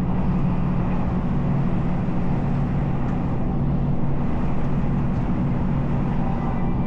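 Electric passenger train running, heard from inside the carriage: a steady rumble with a low, even hum.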